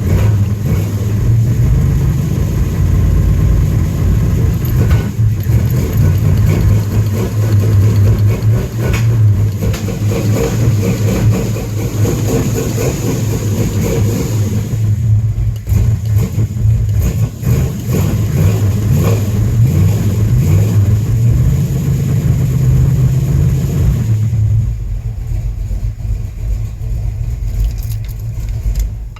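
Car engine running after a cold start following 16 days of sitting, its revs rising and falling as the gas pedal is pumped.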